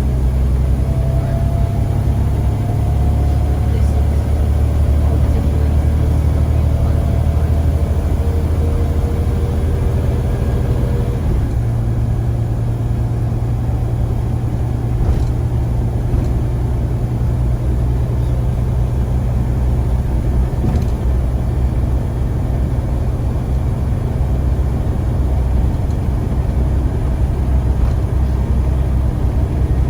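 Scania CN94UA bus's five-cylinder diesel engine running steadily under way. A faint whine rises through the first ten seconds or so, and the engine note changes about eleven seconds in.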